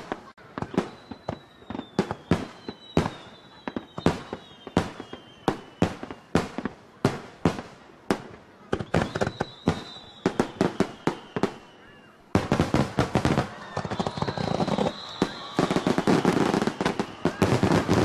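Aerial fireworks bursting in quick succession, with repeated sharp bangs and high whistles that slide downward. About twelve seconds in, the bangs thicken into a dense, continuous barrage.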